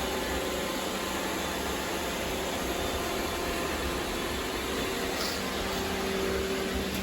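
Robot vacuum cleaner running steadily, its suction motor and brushes giving an even whir with a faint hum.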